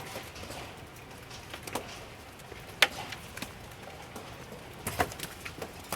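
Hailstones pinging on hard surfaces around, scattered sharp clicks at irregular intervals over a faint steady hiss, the loudest a little under three seconds in and a few more about five seconds in.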